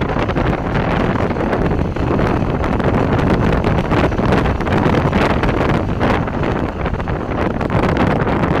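Wind buffeting the microphone hard, over the steady running of a moving vehicle.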